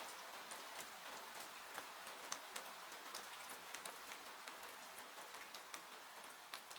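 Faint, steady hiss of falling rain mixed with irregular sharp pops and crackles of a burning wood fire in a fireplace.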